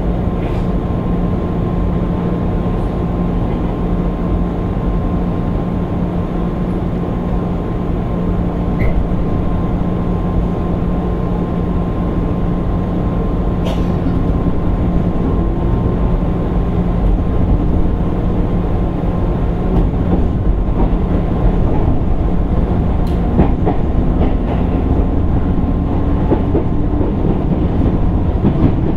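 Inside a JR East 205 series 600 subseries electric train's motor car: continuous rumble with a steady hum. It grows a little louder in the second half, where a faint rising tone comes in.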